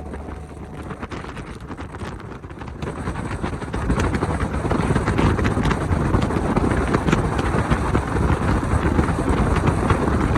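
Wind rushing over the microphone of a moving motorcycle, with engine and road noise, growing louder about three seconds in as the backing music fades out at the start.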